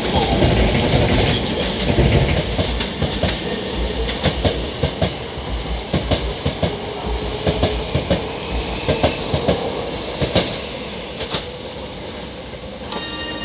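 Hankyu 7000 series electric train pulling out, its wheels clacking irregularly over rail joints as it runs past, the rumble slowly fading as it leaves. A short electronic tune starts near the end.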